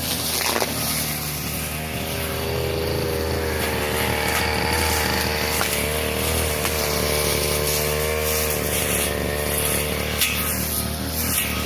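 Brush cutter engine running hard while cutting grass, its pitch wavering up and down over the middle of the stretch as the load changes.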